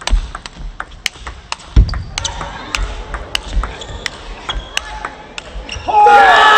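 Table tennis rally: the celluloid ball clicking off bats and table in quick succession, with a low thud about two seconds in. Near the end the point ends and the crowd breaks into cheering and shouts.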